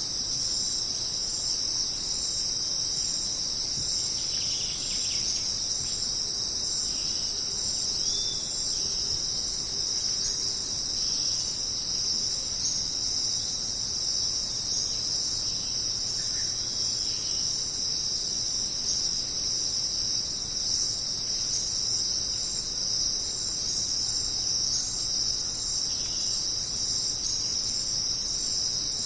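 Dense, steady, high-pitched chorus of jungle insects trilling without a break, with a few faint short calls beneath it.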